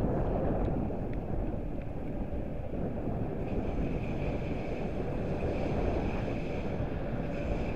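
Wind buffeting the microphone. From about three and a half seconds in, an approaching train adds a steady high whine.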